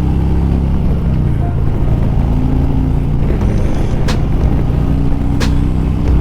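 Harley-Davidson Milwaukee-Eight 114 V-twin running steadily while the bike cruises in traffic, still on its stock cam. Two or three short sharp clicks sound in the second half.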